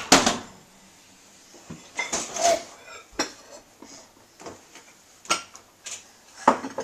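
Dishes and silverware clinking and clattering as they are handled while unloading a dishwasher: a string of short, sharp clinks, the loudest at the very start and near the end.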